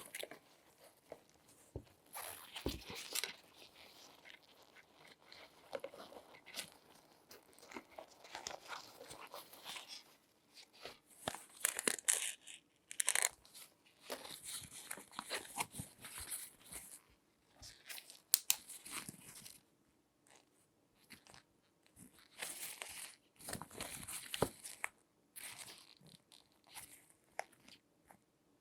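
Close-miked crinkling and rustling of latex-gloved hands handling a shoe, broken by irregular sharp clicks and taps.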